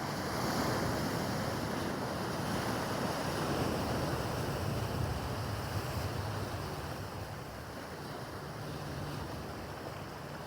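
Choppy harbor water washing and splashing, with wind buffeting the microphone; the wash is strongest in the first few seconds, then eases.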